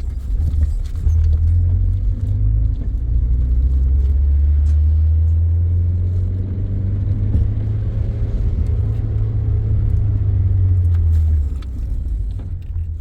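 Steady low rumble of a car on the road, heard from inside the moving vehicle; it eases off near the end.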